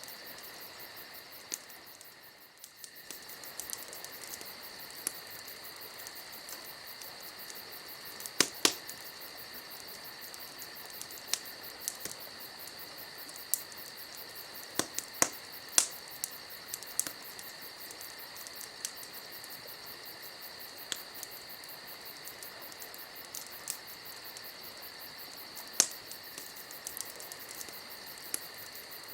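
Campfire crackling with scattered sharp pops, over a steady chorus of crickets. The background briefly fades and returns a couple of seconds in.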